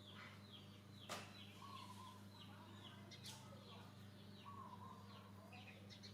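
Faint animal calls: a steady run of short, high, falling chirps, about two a second, with a few lower whistle-like calls. Two sharp clicks, about a second in and a little after three seconds in, over a steady low hum.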